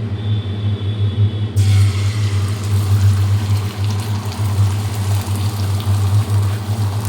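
Beaten egg poured into hot oil in a frying pan, starting to sizzle suddenly about a second and a half in and sizzling on, over a steady low hum.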